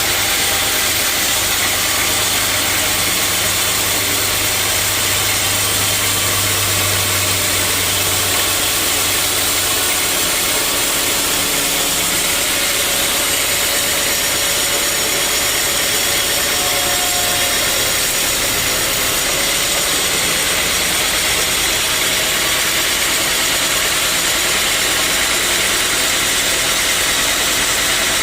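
Sawmill machinery running steadily: a loud, even mechanical noise with a low hum that fades out about ten seconds in.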